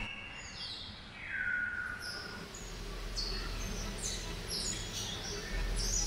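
Birds calling: a string of short chirps and whistles that fall in pitch, with a longer falling whistle about a second in.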